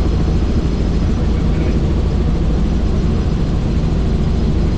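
Helicopter in flight: a loud, steady rotor and engine drone with a deep, even hum.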